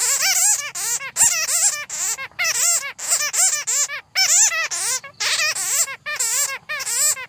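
Bats chattering: a rapid series of high, squeaky calls that warble quickly up and down in pitch, in short bursts with brief gaps between them.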